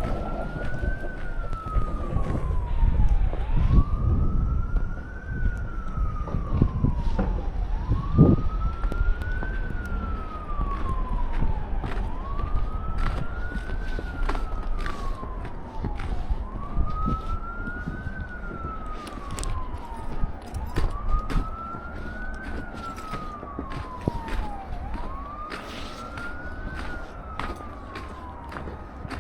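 An emergency vehicle siren wailing, its pitch rising quickly and then falling slowly, repeating about every four seconds. A low rumble lies under it, strongest in the first several seconds.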